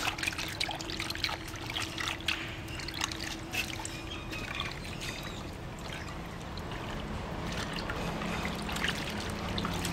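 Kitchen cooking sounds: a trickling, pouring-like hiss with many scattered short clicks and taps.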